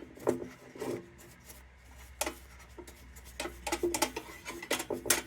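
Hand rubbing and scrubbing on the tinplate of a 1945 Dietz No. 2 Blizzard lantern: a run of short, irregular scraping strokes as rust and grime are worked off the metal.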